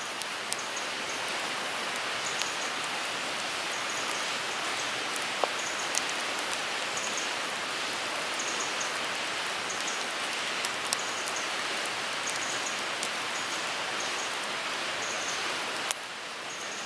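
Wood fire burning in a Picogrill 398 fire pit: a steady hiss of flames with irregular sharp crackles and a few louder pops of burning wood.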